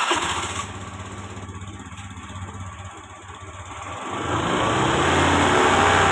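Engine running just after being started, on fresh oil after an oil change: it settles to an idle, then revs up about four seconds in and holds the higher speed.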